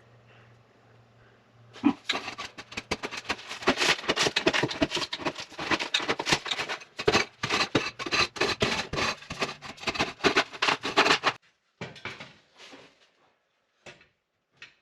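Dry-rotted plywood floor being scraped and pulled apart: a dense run of crunching, scraping crackles, the wood crumbling like sawdust. It starts about two seconds in and stops suddenly near the end, leaving a few faint scrapes.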